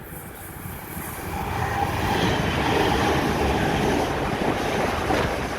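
Train running through the station, its rumble growing louder over the first two or three seconds, then holding steady as it passes close by.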